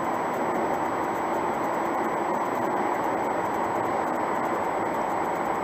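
Steady road and engine noise inside the cabin of a moving car, an even rushing hum with no sudden sounds.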